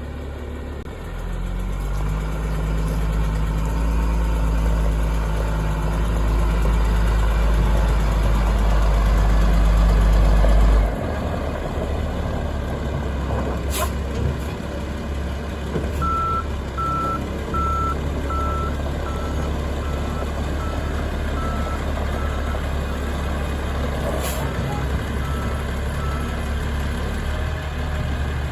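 2000 Chevrolet C7500 dump truck's engine running, growing steadily louder for about ten seconds and then dropping abruptly to a lower, steady run. A few seconds later a reversing alarm beeps about once a second and fades away, with two brief sharp ticks along the way.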